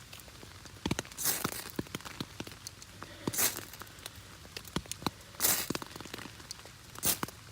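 A ferrocerium rod being struck to throw sparks onto a tinder bundle: four long scrapes about two seconds apart. Rain patters steadily on an umbrella throughout.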